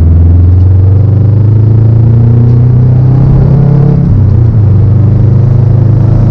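A car engine running loud and close, holding a steady low note that dips about four seconds in and then climbs again.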